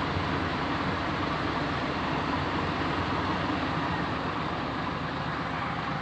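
Truck engine idling with the air-con blower running: a steady, even mechanical noise.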